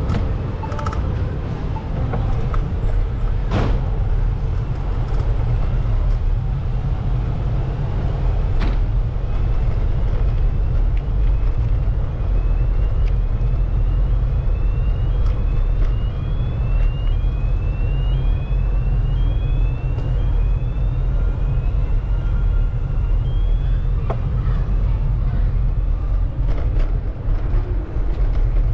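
Steady low wind rumble on the microphone of a moving bicycle, with road traffic around it. For about twelve seconds in the middle, a run of short rising chirps repeats roughly once a second.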